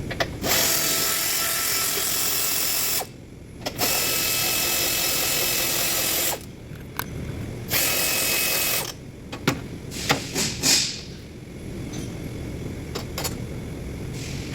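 Handheld power tool running in three runs, two of about two and a half seconds and a shorter one of about a second, with a steady motor whine. A few sharp metallic clicks follow.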